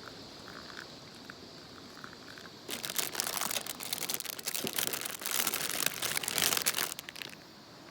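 Dense crinkling and crumpling, like something being handled and scrunched, starting about three seconds in and stopping sharply near the end.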